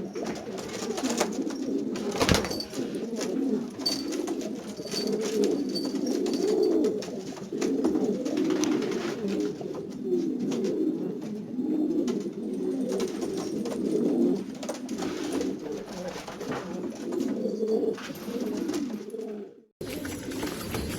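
Domestic pigeons cooing continuously, several birds overlapping, with a sharp click about two seconds in. The cooing cuts off suddenly near the end.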